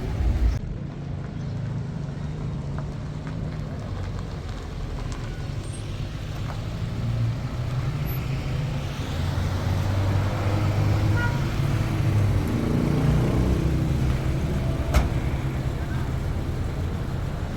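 A car running on the road, its steady low engine and road rumble swelling with a rising engine note midway as it speeds up. A single sharp click near the end.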